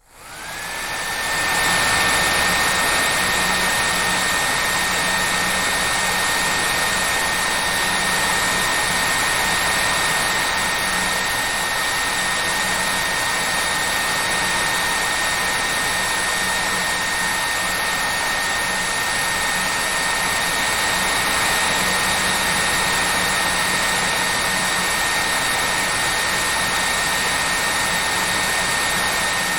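Hair dryer switching on and running steadily: a whine rises to a steady high pitch over the first second, over an even rush of blowing air.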